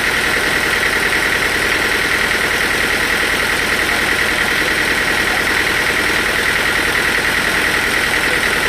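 Sawmill saw machinery running steadily: a constant mechanical drone with a steady high-pitched whine on top, unchanged throughout.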